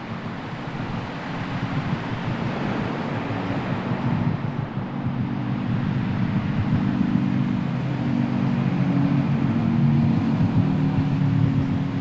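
Strong wind and sea noise: a steady rushing hiss, with a low droning hum that swells in after a few seconds and holds.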